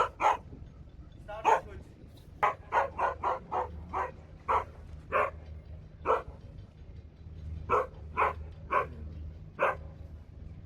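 A dog barking repeatedly: about seventeen short barks in uneven runs, some coming fast one after another, over a steady low hum.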